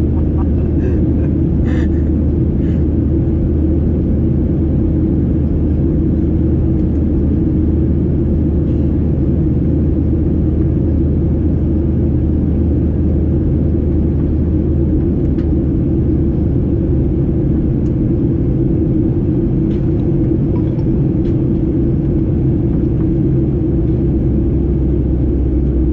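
Steady low cabin rumble of a Boeing 737-800 in flight: engine and airflow noise heard from inside the passenger cabin.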